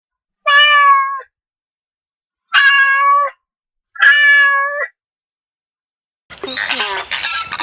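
Domestic cat meowing three times, each meow under a second long. Near the end a different, busier clamour of wavering animal calls begins.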